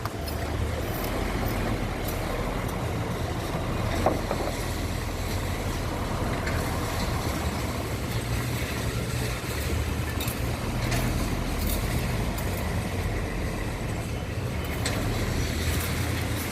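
Heavy four-axle Hyundai dump truck's diesel engine running with a steady low rumble. There is a brief sharp knock about four seconds in.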